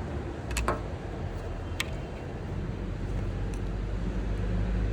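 A few sharp clicks of a test lead and clip being fitted onto the fuse box: two close together, then one more about a second later. They sit over a steady low rumble.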